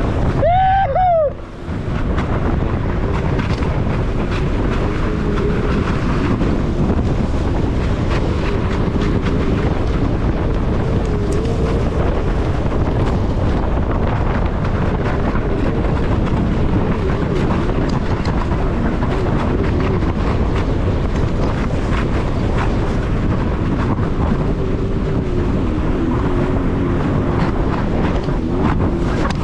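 Sea-Doo Spark Trixx jet ski running steadily at speed, its engine tone wavering under a heavy rush of wind on the microphone and water. A brief rising-and-falling pitched sound comes about a second in.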